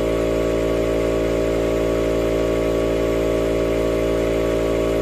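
Pancake air compressor motor running steadily, pumping the tank up to maximum pressure.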